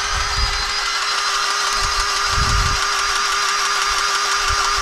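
Battery-powered grease gun's motor running steadily at one pitch, pumping grease into an excavator's grease nipple.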